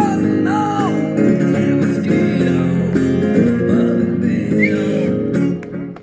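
Electric guitar playing an instrumental passage of sustained, changing notes, with the playing dropping away briefly near the end.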